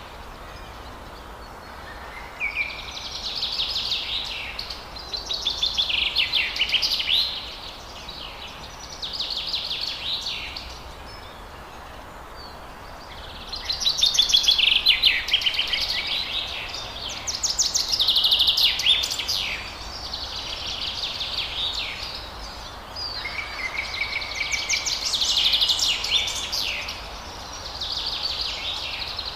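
Forest songbirds singing: a run of phrases made of rapid, fast-repeated high notes, each lasting a second or two with short pauses between, over a steady background hiss.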